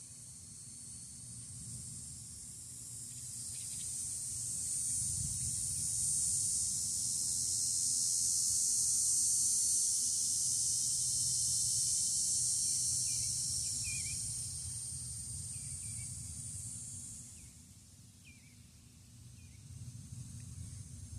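A high, steady insect chorus that swells and then fades away a few seconds before the end, over a low rumble of breeze on the microphone. A few short bird chirps come in the second half.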